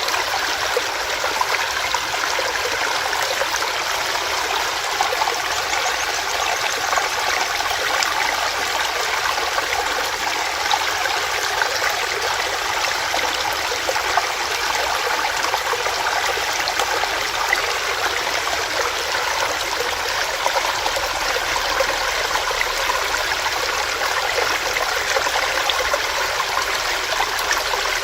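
Small rocky stream running over stones: a steady rush of water with fine splashing and trickling, even throughout.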